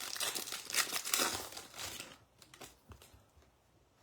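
A baseball card pack's wrapper crinkling as it is torn open and handled, for about two seconds, then a few light clicks and taps.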